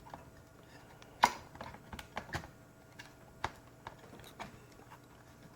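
Irregular sharp clicks and taps of small plastic and metal laptop parts being handled and fitted, one much louder about a second in.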